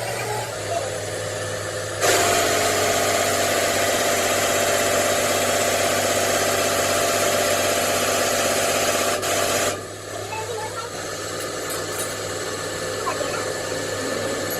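A workshop machine switches on about two seconds in, runs loud and steady with a whirring tone for about eight seconds, then cuts off abruptly, over a constant low hum.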